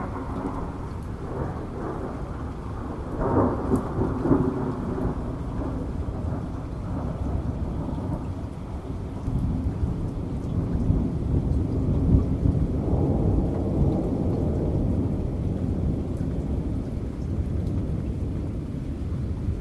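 Thunder rumbling over steady rain, with a louder peal about three seconds in and a longer swell of rumbling around the middle.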